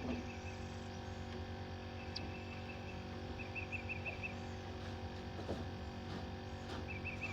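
A bird calling in runs of short, quick, high chirps, several runs in a row, over a steady low hum.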